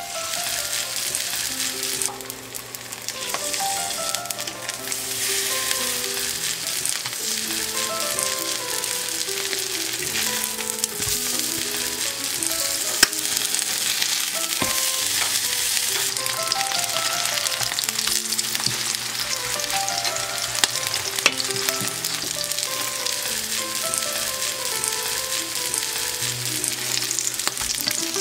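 Cabbage and radish pancake batter sizzling steadily in hot oil in a frying pan. A wooden spatula turns the pancakes, with a few light taps against the pan.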